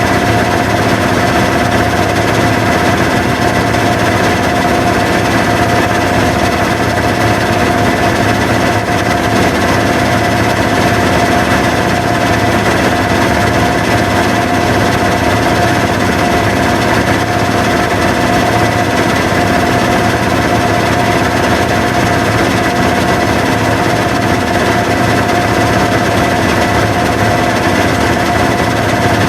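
Washing machine running loudly and steadily: a constant mechanical hum with a high whine and a rattling vibration that holds without change.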